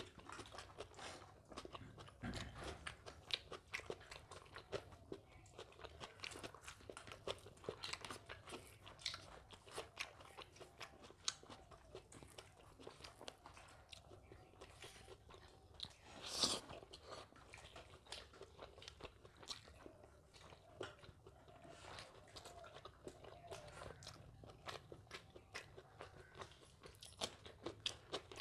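A person eating close to the microphone: steady chewing with many small wet mouth clicks and crunches, and one louder crunch about sixteen seconds in.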